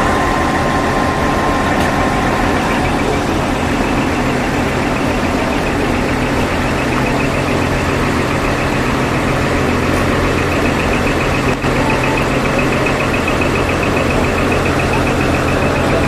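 Heavy truck diesel engine idling steadily. A fast, high-pitched pulsing sound joins in a few seconds in.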